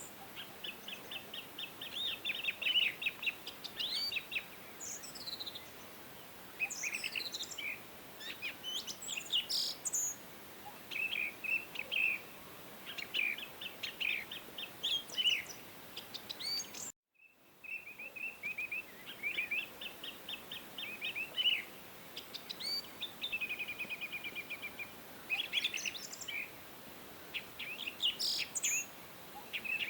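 Several songbirds singing and calling: rapid trills and quick chirps, some sweeping up and down in pitch, over faint steady background hiss. The sound cuts out completely for a moment a little over halfway through, then the birdsong resumes.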